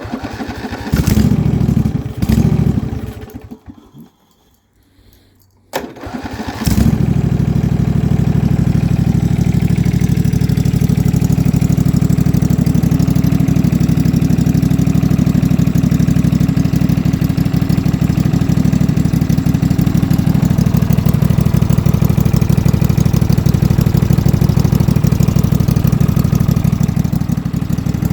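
Riding lawn tractor's small engine on a cold start after a carburetor replacement: it cranks about a second in without catching, goes quiet, then is cranked again and catches about seven seconds in. From there it runs steadily with an even pulse.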